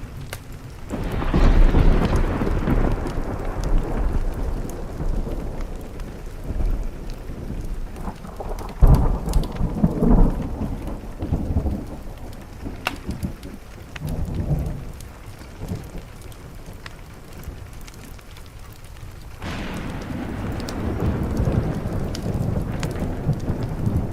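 Thunder rumbling over steady rain on a window. One long roll starts about a second in and swells again near the middle; a second roll builds near the end. Small sharp crackles of a wood fire run underneath.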